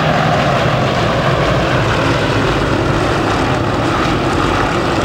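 Formation of radial-engined Yak-52 and Nanchang CJ-6 propeller trainers flying past, the engines and propellers making a loud, steady drone.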